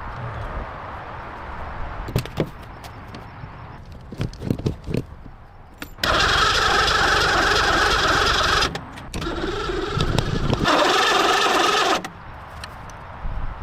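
A few knocks and clanks, then a loud motor runs in two bursts of about three seconds each, stopping briefly in between.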